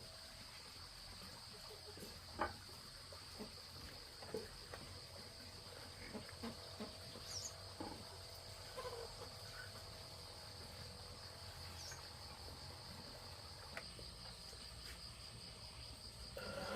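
Faint, steady high trill of insects, typical of crickets, with a few light knocks and taps scattered through the middle. A louder noise begins to build right at the end.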